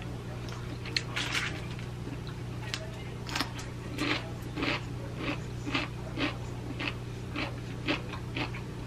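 A person chewing food close to the microphone, with crisp crunches about twice a second, over a steady low hum.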